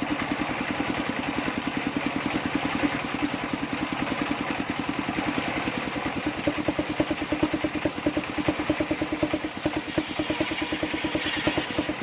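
Sawmill circular saw machine running steadily, its drive motor giving a rapid, even throb.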